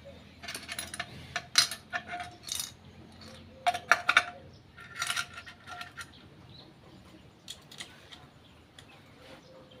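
Small metal parts and tools clinking and tapping against each other, a run of sharp clicks and short ringing clinks that thins out after about six seconds. These are hand-handled parts during motorcycle clutch assembly.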